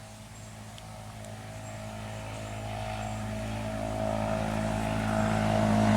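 An engine hum growing steadily louder as a motor vehicle or small aircraft approaches.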